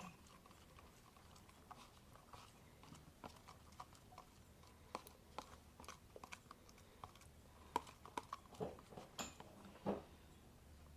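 Faint scattered clicks and squelches of glue-and-borax slime being stirred in a bowl as it thickens.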